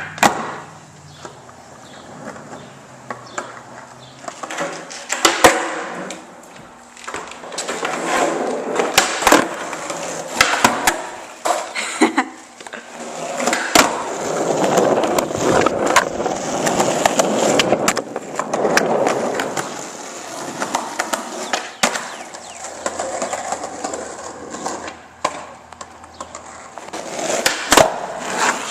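Skateboard wheels rolling over pavement in several long swells, broken by sharp wooden clacks of the board snapping and landing during tricks, around half a dozen times.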